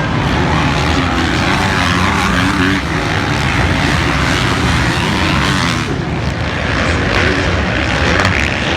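Motocross bike engines revving hard, a loud continuous engine noise.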